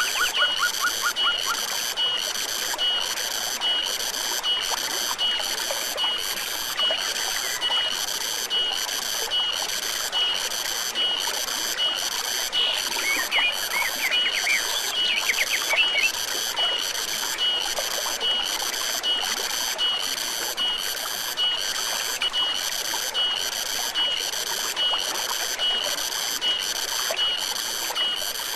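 A high-pitched insect chorus pulsing evenly, a little over once a second, over a running forest stream, with a few quick bird trills about halfway through.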